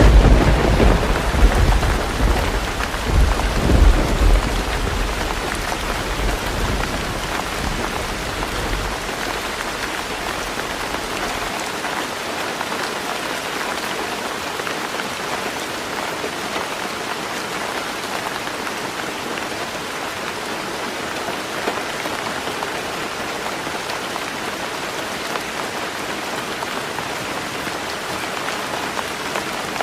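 Heavy rain falling steadily on a tin roof. A deep rumble of thunder breaks right at the start, swells again about four seconds in, and dies away by about ten seconds in, leaving only the rain.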